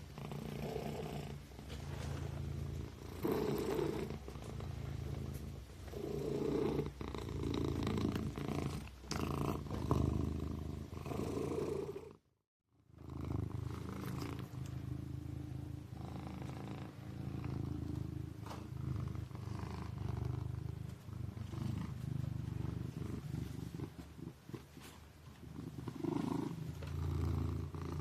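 Kitten purring steadily, swelling and fading every couple of seconds, with a brief break to silence about twelve seconds in.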